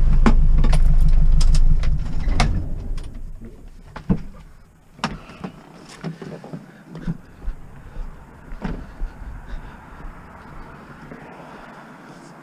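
A motor vehicle engine running with a steady low rumble, dying away over a couple of seconds about two seconds in. It is followed by scattered light knocks and clicks.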